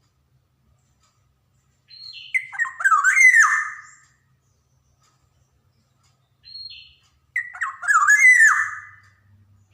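Black-naped oriole (kepodang) singing two phrases a few seconds apart. Each phrase opens with a short high note and runs into loud, fluty notes that slide downward, with a harsh edge.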